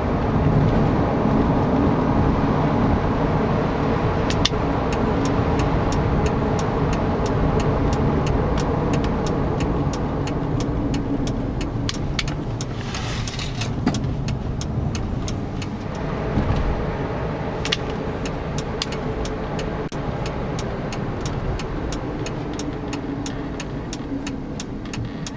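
2002 Jeep Liberty driving, heard from inside the cabin: steady engine and road rumble, with a quick, regular ticking running through most of it.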